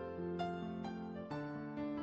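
Soft background piano music: single notes struck about every half second over held lower notes.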